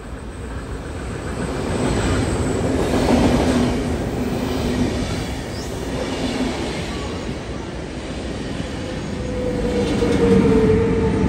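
SBB electric train, a locomotive hauling white double-deck coaches, passing close by on the adjacent platform track. The rumble of its wheels on the rails swells over the first few seconds as it nears, then carries on steadily under a low hum. Near the end a whine falls slightly in pitch.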